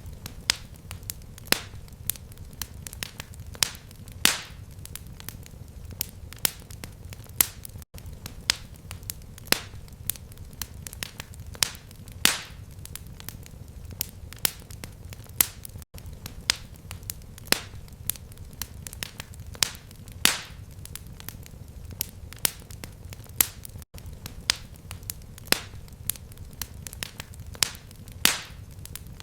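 Fireplace fire crackling: frequent sharp pops and snaps, a few much louder than the rest, over a low steady rumble of flame. The sound cuts out for an instant about every eight seconds.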